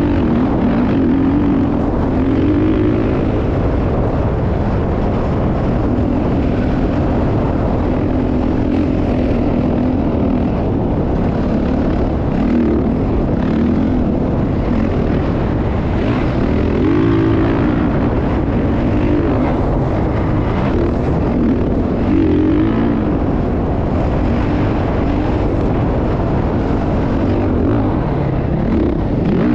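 Motocross dirt bike engine running loud and continuously, its pitch rising and falling again and again as the throttle is worked, over a steady rushing noise.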